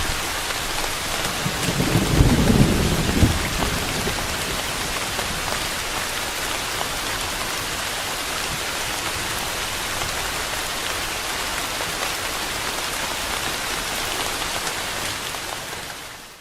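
Steady rain falling, an even hiss, with a short low rumble of thunder about two seconds in. The rain fades out at the very end.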